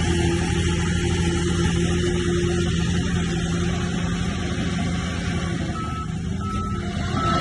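Heavy diesel engine of a crawler bulldozer running steadily under work. Three short high beeps come in near the end.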